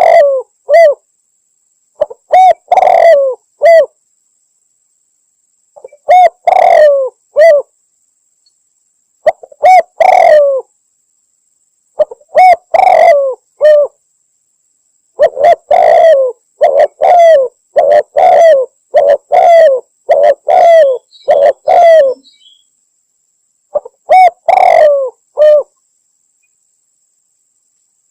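Spotted dove (tekukur) cooing in repeated phrases of a few rhythmic notes, with short silent gaps between them and a longer, denser run of calls in the middle. It is a lure-call recording of a female calling to males.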